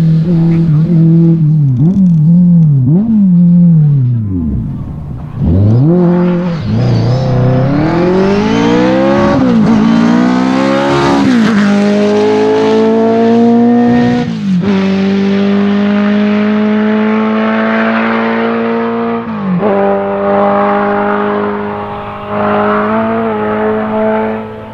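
Ferrari 308 GTB rally car's 2.9-litre 90° V8 driven hard and loud: the revs swing up and down on and off the throttle for the first few seconds, then climb through the gears with three upshifts, then hold high and steady with a short lift about twenty seconds in.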